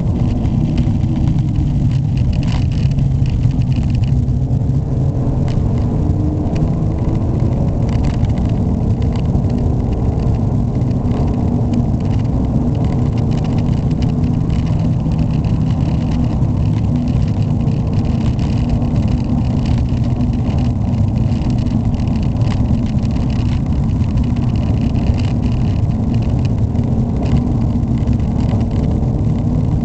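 Ford Mondeo Estate's 1.6-litre, 125 hp four-cylinder petrol engine running steadily under way, with road noise; the engine pitch drifts slowly up and down as the speed changes. The engine is very noisy, by the owner's account.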